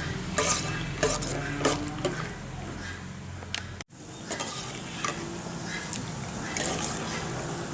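Peanuts frying in hot oil, sizzling, with a ladle stirring and clinking against the pan in the first couple of seconds. The sound cuts out briefly about four seconds in, then the sizzling goes on.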